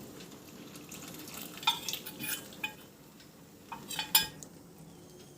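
A metal spoon stirring in a cooking pot and clinking against its sides, with several sharp ringing clinks about two seconds in and again about four seconds in, as cornflour slurry is stirred into boiling chicken stock.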